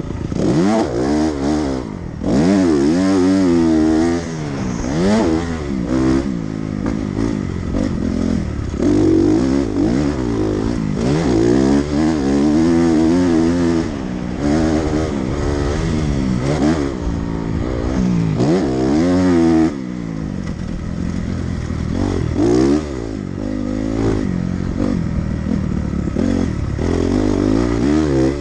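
Dirt bike engine being ridden hard on a motocross track: the revs climb and drop again and again as the throttle opens and closes through the turns and jumps, about a dozen rises and falls, with a sharp throttle chop just before two seconds in and another near twenty seconds in.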